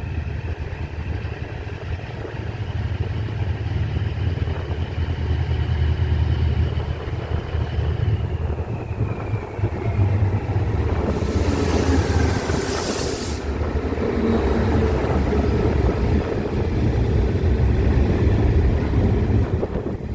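A pair of Class 68 diesel-electric locomotives, each with a Caterpillar V16 engine, passes through the station hauling a nuclear flask train, with a deep, steady engine rumble. A high tone falls in pitch about eight seconds in, and a loud hiss lasts a couple of seconds around the middle.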